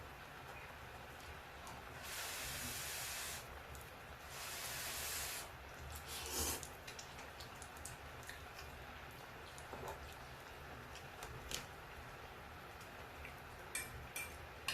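Quiet eating sounds: scattered small clicks and taps, with two short hissing bursts of about a second each, about two and four seconds in.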